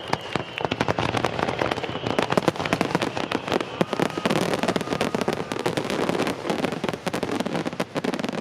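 Fireworks going off in a dense, rapid barrage of bangs and crackles, many bursts a second, as in a starmine.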